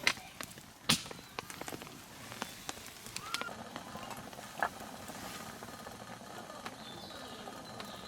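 Wood campfire crackling, with scattered sharp pops and two louder knocks, one at the start and one about a second in.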